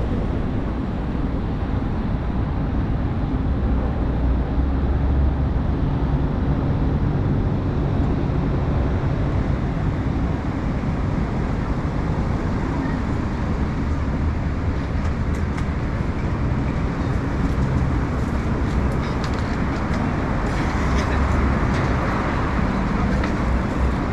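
City street ambience: a steady low rumble of road traffic, with a few faint light clicks and clatters.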